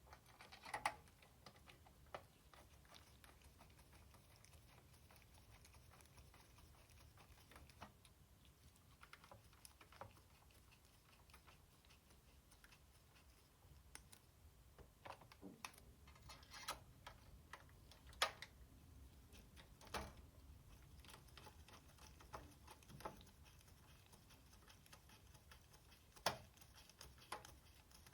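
Scattered light clicks and taps of plastic and metal console parts being handled and fitted together while a PS4 Slim is reassembled. The clicks come at irregular spacing, the sharpest about a second in, past the middle and near the end.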